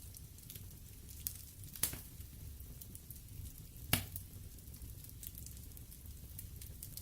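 Wood fire crackling in a fireplace: scattered sharp pops over a low steady rumble, the loudest pop about four seconds in.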